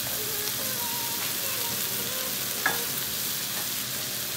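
Chopped onion, ginger and garlic sizzling steadily in hot butter and oil in a nonstick frying pan over high heat, with one sharp click a little past halfway.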